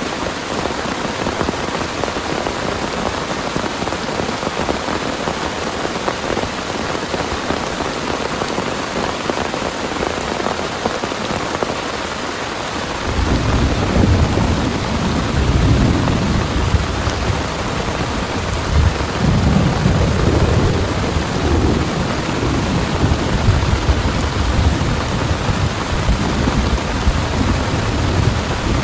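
Heavy rain falling steadily. About halfway through, rolling thunder begins and rumbles on in swells, louder than the rain.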